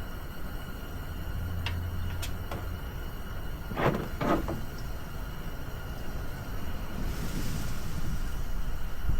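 Wind rumbling on the microphone, with a few light clicks and two short scraping rasps about four seconds in.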